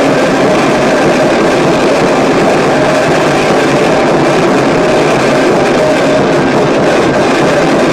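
Harsh noise music: a dense, unbroken wall of loud distorted noise, strongest in the low mids, with no beat or melody.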